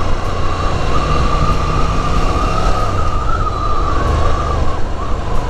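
Ducati Scrambler's L-twin engine running at a steady cruise, mixed with rushing wind and a faint wavering whistle.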